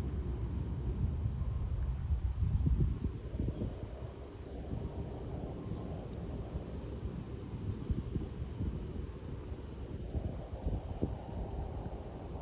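A cricket chirping steadily, a high, even pulse a few times a second, over a louder low rumble.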